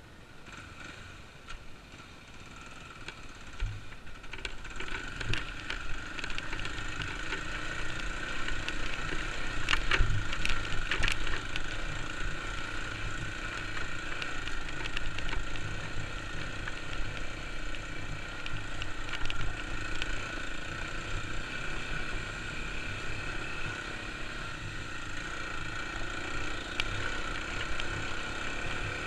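Kawasaki KLX250's single-cylinder four-stroke engine running as the bike is ridden on a trail, growing louder over the first few seconds and then holding steady, with a few sharp knocks about ten seconds in.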